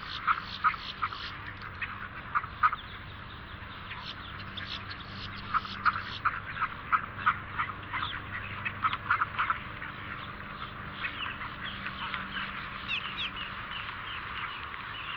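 Ducks quacking: many short, overlapping calls in a busy chorus, thinning out in the last few seconds.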